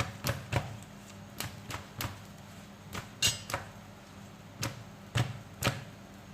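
Kitchen handling noise while working cooked parathas at the griddle: about a dozen irregular sharp taps and knocks, over a faint steady hum.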